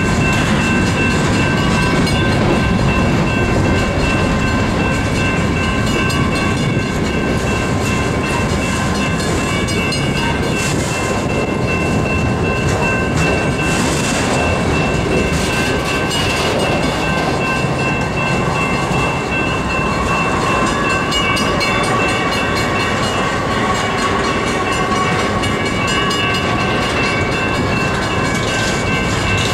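A freight train's cars rolling past close by: a steady rumble and clatter of steel wheels on rail, with a few steady high tones riding over it.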